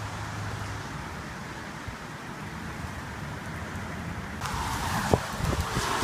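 Strong thunderstorm wind blowing across the microphone, turning louder about four and a half seconds in, with buffeting thumps near the end.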